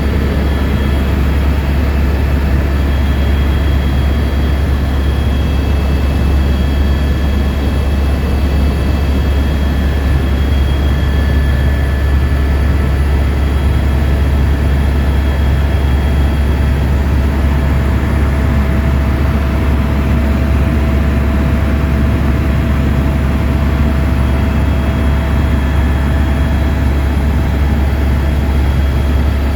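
Helicopter in flight: a loud, unbroken drone of rotor and turbine with a deep steady low hum and faint steady higher tones above it.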